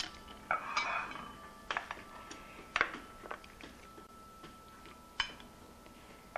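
A utensil clinking and scraping against a baking dish and serving platter as baked chicken breasts are lifted across, with a few sharp clinks spread through.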